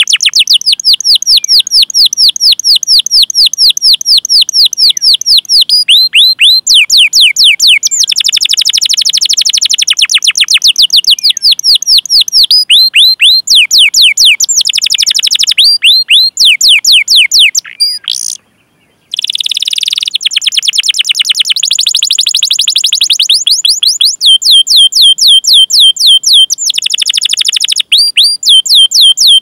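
Canary singing long rolls of rapid, repeated downward-sweeping 'cuit cuit' chirps, several a second, broken by a brief silence about two-thirds of the way through.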